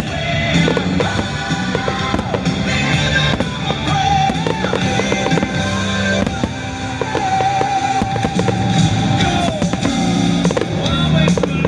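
Fireworks bursting and crackling, with many sharp bangs, under loud rock music that holds long sustained notes.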